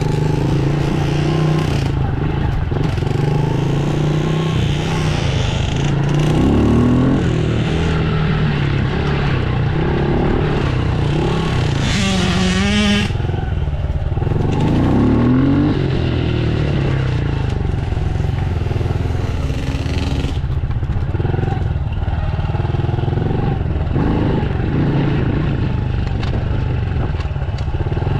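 Dirt bike engine running as the bike is ridden, revving up and dropping back several times over a heavy, steady low rumble.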